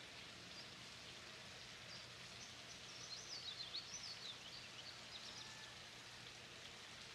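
Faint outdoor background hiss, with a small bird chirping in a quick run of rising and falling notes from about two and a half to five and a half seconds in.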